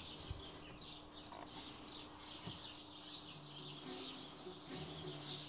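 Small birds chirping faintly in the background, with a faint low steady hum underneath.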